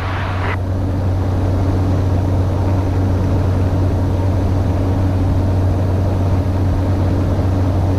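Cessna 208 Caravan's PT6A turboprop engine and propeller droning steadily in cruise, a deep constant hum with a fainter higher tone over a rushing haze, as heard in the cockpit.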